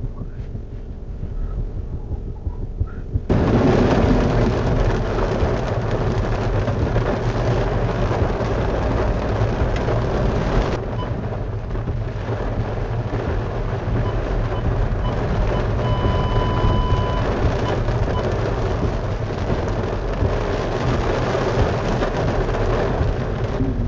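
Heavy cloudburst rain pounding on a car's roof and windshield, heard from inside the car as it drives through flooded streets, with tyres hissing through standing water. It gets much louder abruptly about three seconds in. A steady beep lasting about a second comes a little past the middle.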